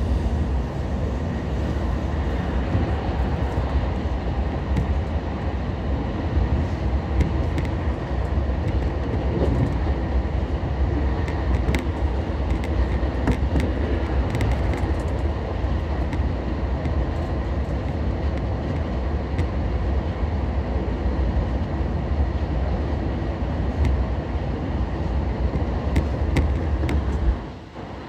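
Running noise of an Odakyu 1000 series train, a renewed car refitted with a SiC-VVVF inverter, heard from inside the car while it runs along the line: a steady low rumble of wheels on rail with a few faint clicks. The rumble drops away abruptly near the end.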